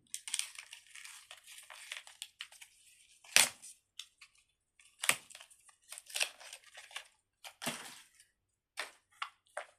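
Fidget toy handled close to the microphone: a dense crinkling rustle for about three seconds, then about six sharp separate crackles.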